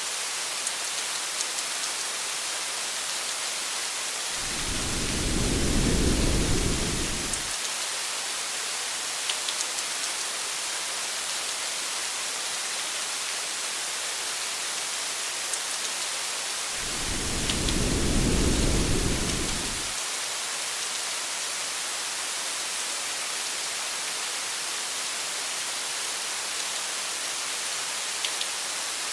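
Steady rain hiss with scattered drop ticks, and low rolls of thunder: one about four seconds in and another about seventeen seconds in, each lasting around three seconds, with a third starting just at the end.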